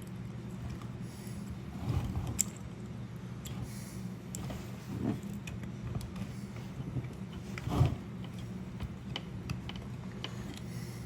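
Small clicks and clinks of hand tools and parts being handled while a chainsaw is taken apart, with a few louder handling knocks about two, five and eight seconds in, over a steady low hum.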